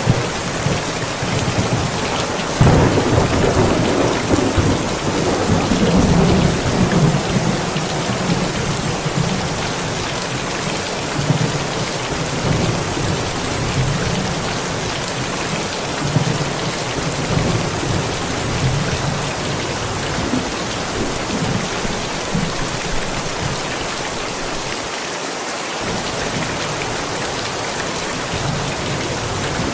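Steady rain pouring, with a rumble of thunder rolling in a few seconds in and fading away over the next several seconds.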